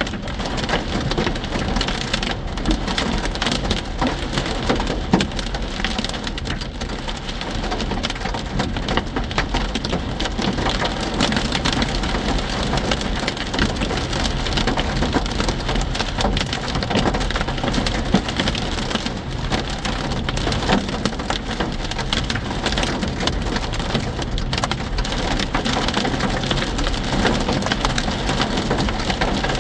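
Hail pelting down in a dense, steady clatter of countless small impacts, mixed with heavy rain.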